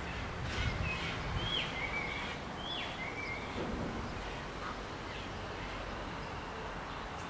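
A bird calling: a few short notes, each sliding down and then held briefly, in two phrases about a second apart, over a steady low background rumble.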